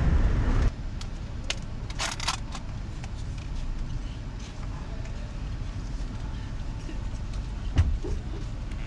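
Steady low rumble of a car engine heard from inside the vehicle, with a few light clicks, a brief rustle about two seconds in and a short knock near the end. A louder, even noise cuts off abruptly just before the first second.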